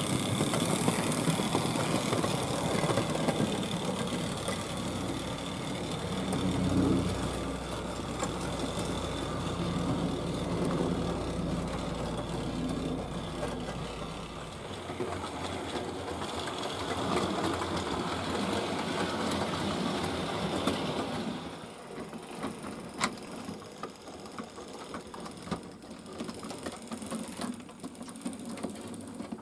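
Hornby Dublo 3-rail model tank locomotive running on the track: the small electric motor and gearing whirr steadily while the wheels click over the rail joints. The sound drops off about three-quarters of the way through, leaving fainter clicks.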